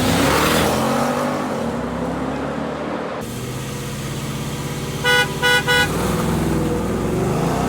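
Car engine running and revving, its pitch rising and falling, with three short car-horn honks in quick succession about five seconds in.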